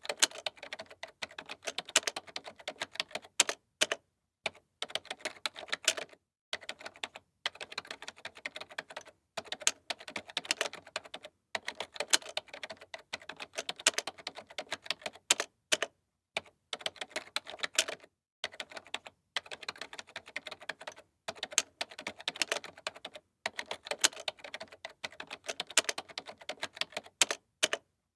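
Computer keyboard being typed on: rapid runs of key clicks, broken by short pauses every second or two.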